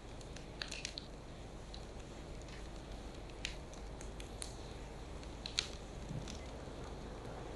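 Firewood burning with a steady low hiss and scattered sharp crackles and pops, the loudest pop about five and a half seconds in.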